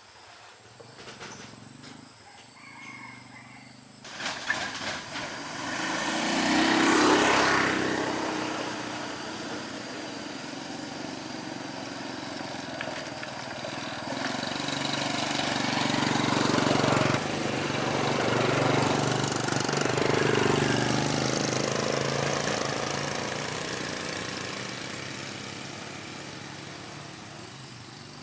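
A motor vehicle's engine running. It starts with a few clicks, swells about four seconds in, stays loud through the middle and fades away near the end.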